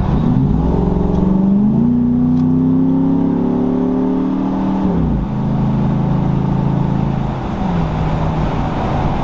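A Jeep's engine accelerating hard at about three-quarter throttle from around 40 mph. Its pitch climbs, drops at upshifts about two and five seconds in, then holds and eases off near the end.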